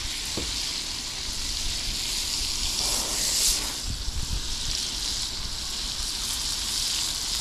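Speckled trout fillet sizzling in browned butter and lemon juice in a skillet over a propane burner: a steady frying hiss that swells briefly about three seconds in.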